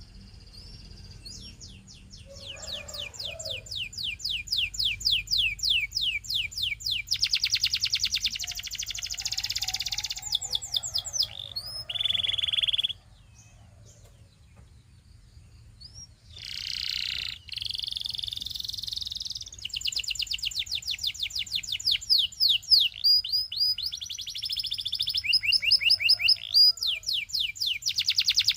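Domestic canary singing: a long song built of fast trills, each run of rapidly repeated notes at a different speed and pitch, with a pause of a few seconds around the middle.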